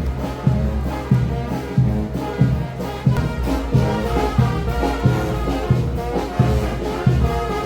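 Brass band playing, with horns holding pitched notes over a steady low bass beat about three times every two seconds.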